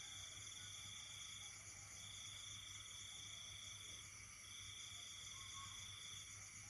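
A faint night insect chorus. One insect trills in repeated phrases of about two seconds with short breaks between them, over a steady high buzz of other insects.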